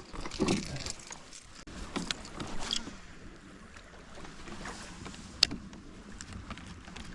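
Small knocks, rustles and water sounds around a fishing kayak, busier in the first few seconds, with one sharp click about five seconds in.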